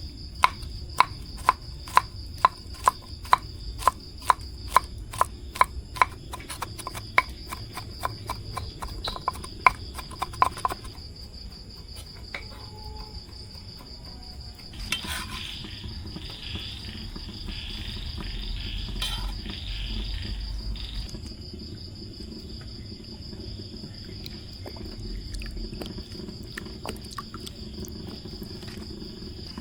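Crickets chirring in one steady, high, unbroken trill. Over it, a run of sharp, evenly spaced clicks about two a second for the first ten seconds or so, then a few seconds of scratchy rustling about halfway through.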